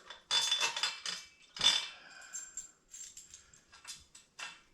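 Steel bolts and hardware clinking and rattling as they are handled by hand: a short rattle, then one sharp clink, then a few lighter clicks.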